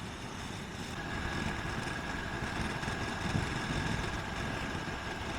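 Motorcycle engine and road noise while riding, a steady rumble, with a thin steady whine from about a second in until near the end.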